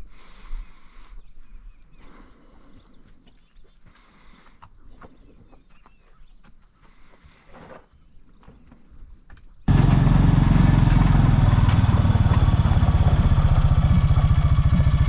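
Quiet outdoor background with faint scattered knocks for about ten seconds, then a loud, steady engine running with a fast, even pulse, starting suddenly.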